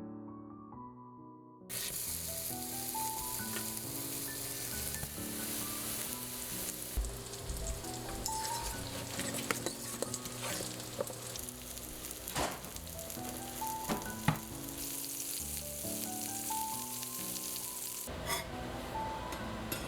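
Food sizzling in a hot frying pan, starting suddenly about two seconds in, with a few sharp clicks of a utensil against the pan.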